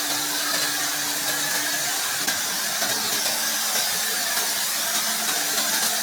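Steady hiss from car-cleaning equipment spraying or blowing a jet, over a low, steady motor hum.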